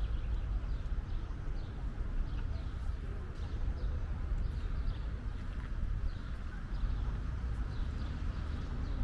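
Birds chirping here and there over a steady low rumble.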